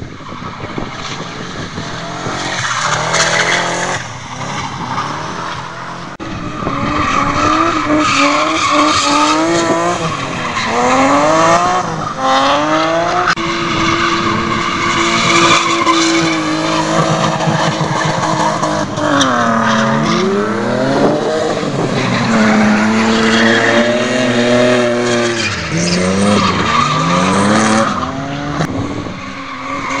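Drift cars' engines revving hard, pitch rising and falling again and again as the throttle is worked, with the tyres skidding and squealing under a steady hiss.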